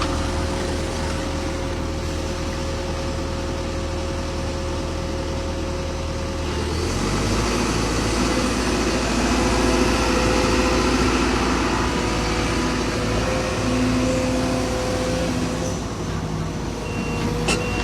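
Heavy diesel engine of construction machinery running steadily; about seven seconds in its note changes and it runs louder. Near the end a reversing alarm starts beeping.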